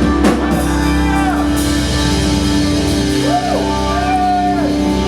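Live gospel worship band holding out the ending of a song: a sustained chord rings under two sliding melodic runs.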